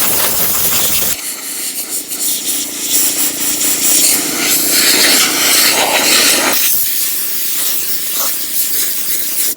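Air blower blasting a loud, steady hiss of air that shifts in tone as the stream moves, then cuts off suddenly at the end.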